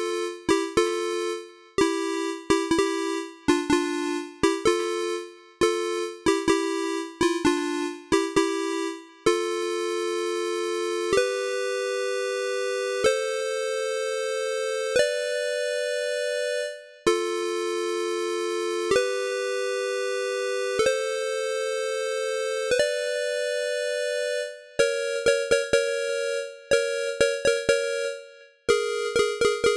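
Electronic synthesizer music made in GarageBand on an iPad: two-note chords, each starting with a click. Short choppy chords come first, then long chords of about two seconds each that climb in four steps, drop back and climb again, and near the end quick repeated chords.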